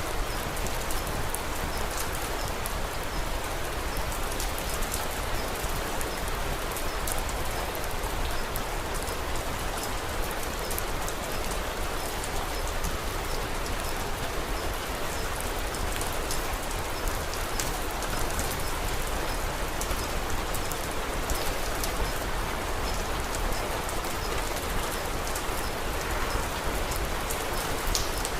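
Steady rain falling, an even hiss sprinkled with many small, sharp ticks.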